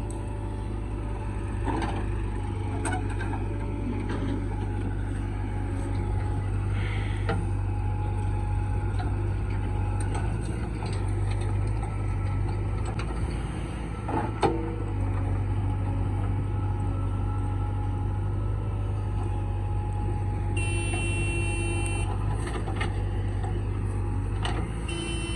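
Diesel engine of a JCB 3DX backhoe loader running steadily while it works, with occasional knocks and one sharp clunk about halfway through. A brief high-pitched tone comes about three-quarters of the way through.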